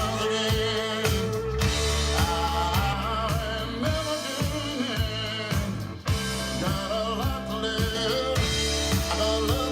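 Blues-rock band recording: a male voice singing over drums and the band, with a very brief break about six seconds in.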